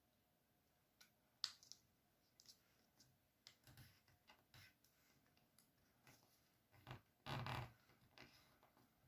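A sheet of paper being handled and folded: soft crackles and scratches as creases are pressed, with a sharp click about a second and a half in and a louder rustle of the paper about seven seconds in.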